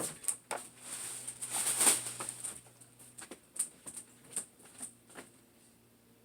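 Light rustling with scattered soft taps and clicks, swelling briefly about two seconds in and dying away near the end.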